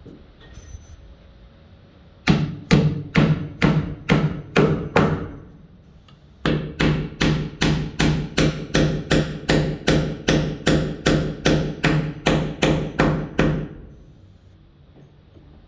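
A hammer driving a nail into wood, each blow sharp and ringing briefly with a pitched note. There are about seven blows at roughly two a second, a pause of about a second, then a longer, even run of about seventeen blows.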